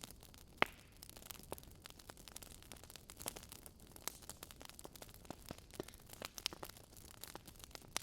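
Wood fire burning in a fireplace, crackling irregularly with small snaps and pops, one sharper pop about half a second in.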